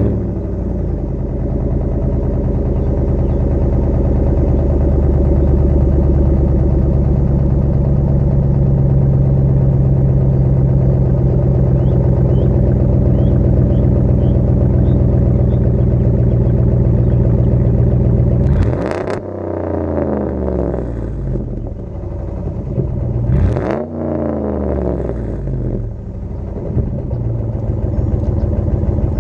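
2011 Ram 1500's 5.7-litre Hemi V8 running steadily through a muffler-delete straight-pipe exhaust, then revved twice in the last third, each rev rising and falling back to idle.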